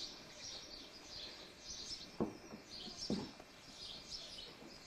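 Birds chirping repeatedly in short bursts, with two soft thumps about two and three seconds in.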